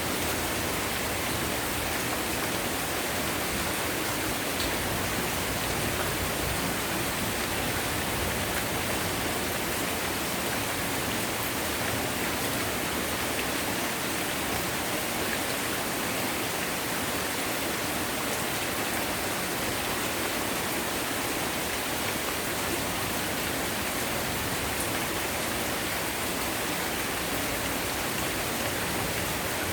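Heavy rain falling steadily, an even hiss of many drops with a few faint sharper drop ticks.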